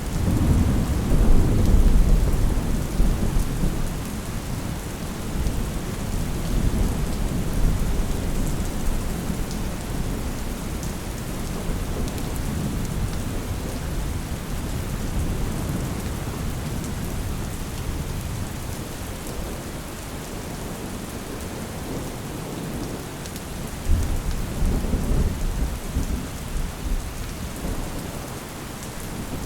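Steady rain falling, with rolls of thunder. A low rumble swells right at the start and fades over several seconds, and another rumble comes in near the end.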